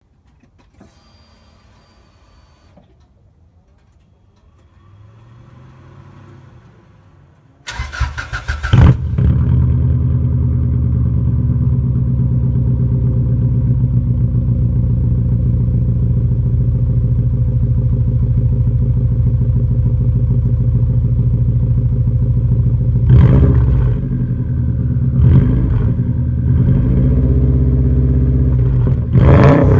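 Subaru Impreza WRX STI (GC8) turbocharged flat-four started through a Laan Sport P555 stainless rear muffler. About eight seconds in, the starter cranks briefly and the engine catches. It settles into a steady idle and is blipped a few times near the end.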